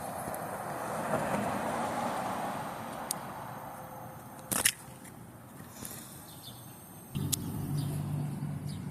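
Traffic: a passing vehicle swells and fades over the first few seconds, then a sharp click about halfway through. About seven seconds in, a low steady engine hum starts.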